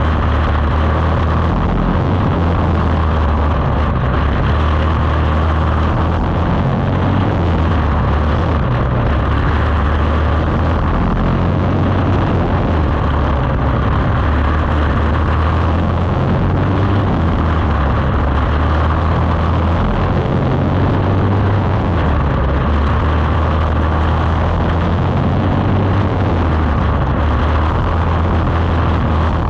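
Quarter midget race car's small single-cylinder engine running hard and continuously, its pitch shifting as it laps.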